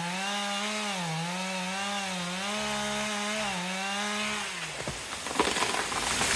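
Chainsaw running, its pitch dipping and picking up again several times as it works, then stopping about three quarters of the way through. A loud burst of crackling, rustling noise follows near the end.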